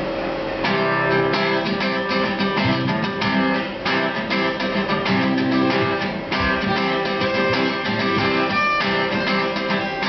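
Acoustic guitar starting about a second in, playing a rhythmic strummed and picked introduction to a song with no singing yet.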